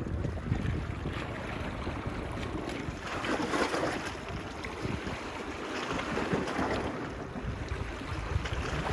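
Small waves washing onto a beach, one swelling up about three seconds in and another a little after six seconds, over a steady low rumble of wind buffeting the microphone.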